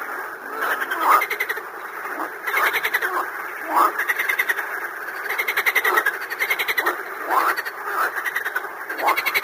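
A chorus of frogs croaking: several rapidly pulsed calls overlap and repeat continuously.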